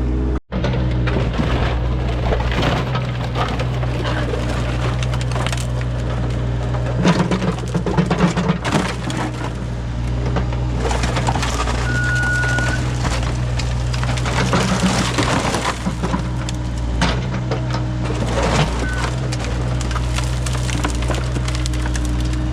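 Heavy digging machinery's engine running steadily while its bucket scrapes and crunches through buried debris and broken material in old fill, with clattering and cracking throughout.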